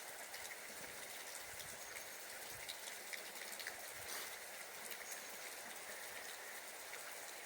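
Faint outdoor ambience: a steady hiss with scattered light ticks and a few soft low rumbles.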